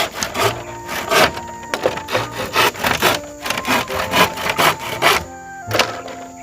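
Hand saw cutting through wood in steady back-and-forth strokes, about two to three a second, with background music underneath.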